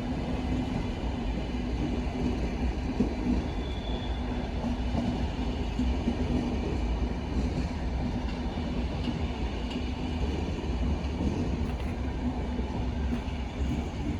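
DSB push-pull train of B coaches and ABs control car hauled by an EB (Siemens Vectron) electric locomotive, running along the station tracks: a steady rumble of wheels on rail with a constant hum.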